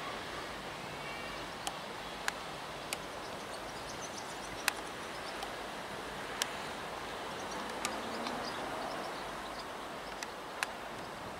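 Steady outdoor railway-station background noise with about eight sharp, irregular clicks scattered through it.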